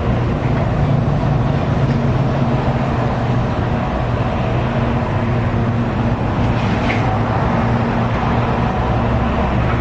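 A vehicle's motor running steadily, a constant low hum under a continuous rush of noise, as heard from a moving vehicle.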